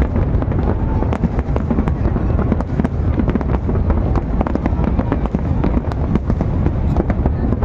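Aerial fireworks display: many aerial shells bursting in rapid succession, dense overlapping bangs and crackles over a continuous low rumble.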